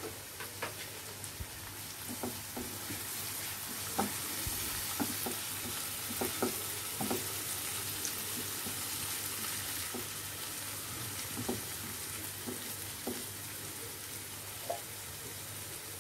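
Onion-tomato masala sizzling in oil in a non-stick kadai as a spatula stirs it, with a steady hiss and scattered light knocks and scrapes of the spatula against the pan.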